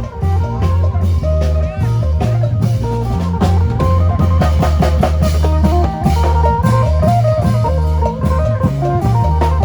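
Isan folk band music in lam phloen style: a phin lute picks a melody over a drum kit and a stepping bass line.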